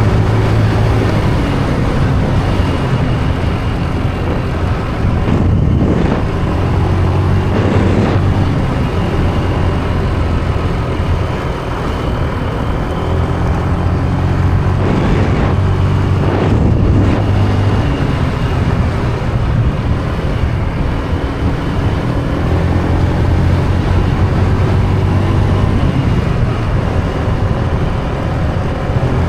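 Small motorbike engine running while riding, its pitch stepping up and down with the throttle, over steady road and wind noise, with a few short louder surges.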